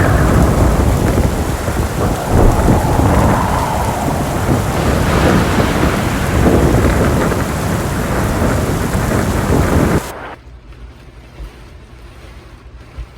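Heavy rain of a thunderstorm, a loud, dense rush with deep rumbling underneath. It cuts off abruptly about ten seconds in, leaving a faint low hum.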